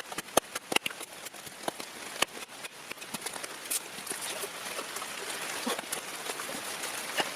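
Steady rain with irregular sharp taps and clicks of drops or handled gear.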